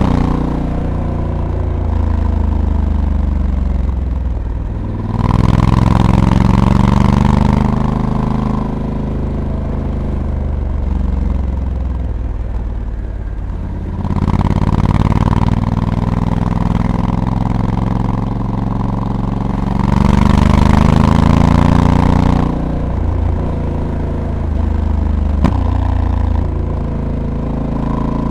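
Honda Africa Twin's 1084 cc parallel-twin engine heard from the bike while riding. Three times it accelerates hard with a rising note, and between those pulls it runs at lower revs. A single sharp click comes near the end.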